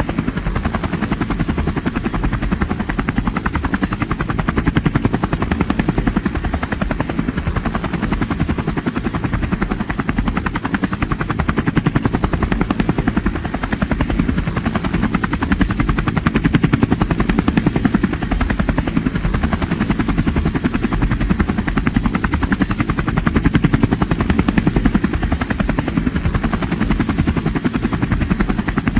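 Helicopter running steadily, its rotor making a fast, even chop that is heaviest in the low end.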